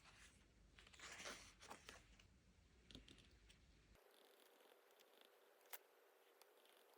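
Faint desk sounds of paper and stationery being handled: a soft rustle about a second in, then a few light clicks and taps.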